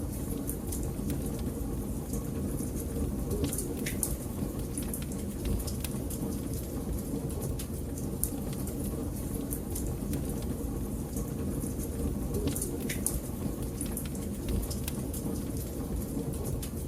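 Wood fire burning in a fireplace: a steady low rumble of flames with frequent sharp crackles and pops, a few louder pops about four seconds in and again near thirteen seconds.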